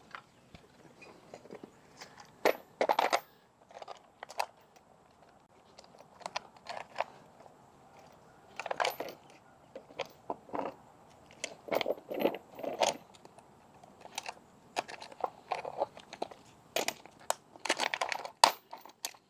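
Irregular clicks, knocks and crinkling as tools and parts are handled under a vehicle during an oil change. The sounds come at uneven intervals, with denser clusters around the middle and near the end.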